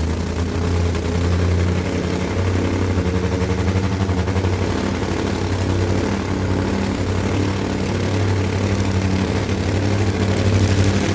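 Supercharged, nitro-burning Top Fuel motorcycle engine idling at a steady, lumpy pitch, with no revving.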